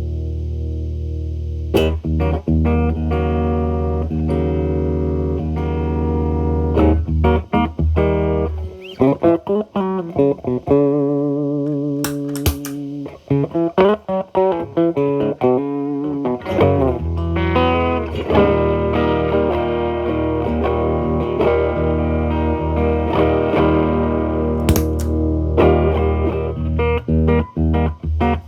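Telecaster played through an early-version MI Audio Crunch Box distortion pedal at gain 8 into a Marshall Valvestate amp's clean channel, giving a crunchy distorted tone. A held chord rings for several seconds, then come single-note lines with vibrato, then picked chords and riffs.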